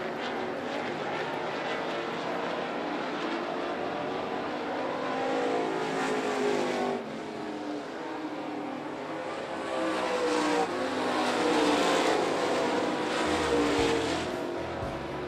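Dirt late model race cars' engines running hard around the track in a pack. Their pitch rises and falls as they pass, and the loudest passes come in the later part.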